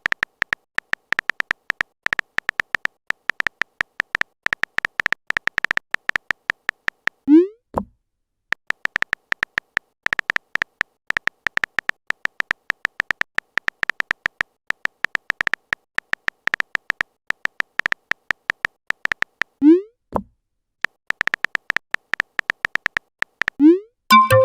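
Synthetic keyboard-typing clicks of a chat-story app, fast and even with a beep-like tone, in three long runs. Each run ends with a short rising 'bloop' as a message is sent, and a brief chime of a few notes comes right at the end.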